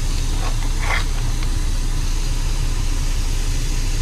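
Semi truck's diesel engine idling steadily, heard inside the cab as a constant low drone. Two brief soft sounds rise over it about half a second and a second in.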